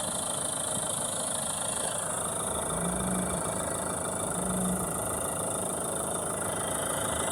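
Mahindra Thar ROXX engine idling steadily with the bonnet open. The mechanic suspects a loose engine-bay pipe that vibrates and leaves rub marks as the cause of the car's buzzing noise.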